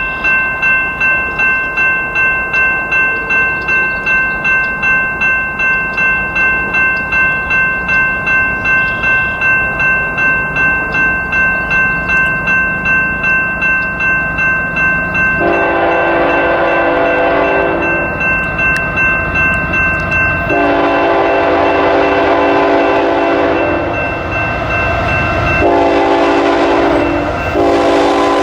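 Railroad grade-crossing bell dinging about twice a second. About halfway through, a diesel locomotive's chime air horn takes over, sounding two long blasts, a short one and a final long one: the standard long-long-short-long grade-crossing warning of an approaching train.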